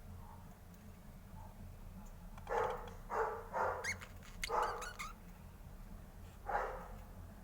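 A series of five short animal calls, four close together in the middle and one more near the end.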